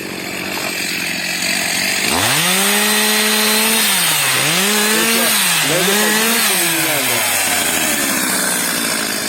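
Two-stroke chainsaw throttled up about two seconds in and run at high revs while sawing wood, its pitch dipping twice under load. Near the end it drops back toward idle.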